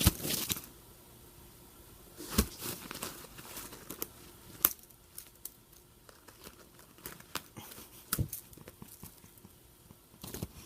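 Crinkling and rustling in irregular bursts with sharp clicks, from a cat playing with a crinkly toy.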